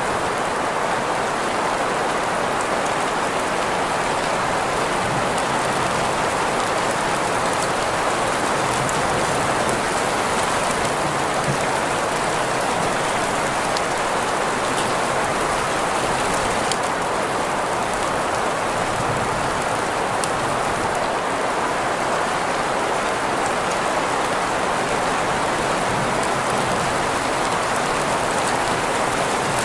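Steady rain mixed with green noise: an even, unchanging hiss centred in the middle of the range, with faint scattered drop ticks.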